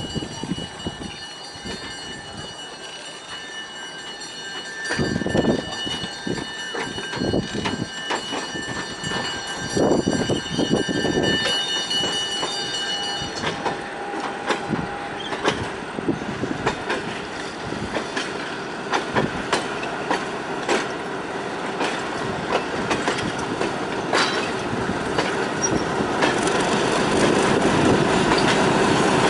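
Passenger coaches rolling slowly past, their wheels clicking over the rail joints, with a high steady wheel squeal that stops about halfway through. Near the end the diesel switcher locomotive pushing at the rear comes closer and its engine grows louder.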